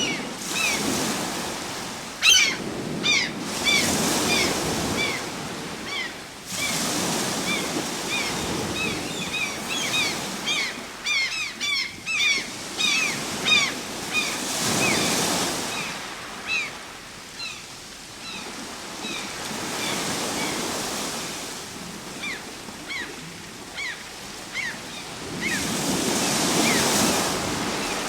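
Ocean surf: waves breaking and washing in, the noise surging and easing every several seconds. Short chirps run through it, thickest in the middle, from small birds calling.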